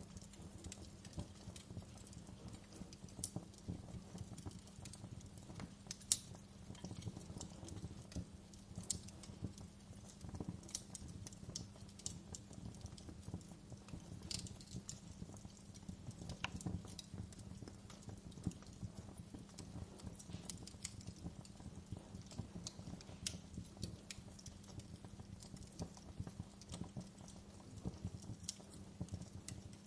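Wood fire crackling in a fireplace: irregular sharp snaps and pops over a low steady rumble of the burning fire, with one louder pop about six seconds in.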